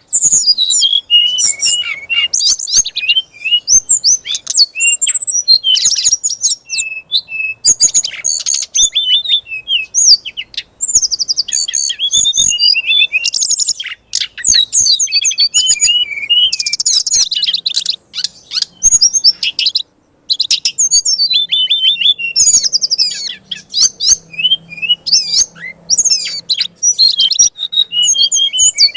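A songbird singing 'fighter'-style song, the aggressive kind that bird keepers play to provoke a magpie-robin: dense, rapid runs of high chirps, trills and slurred whistles with only brief pauses.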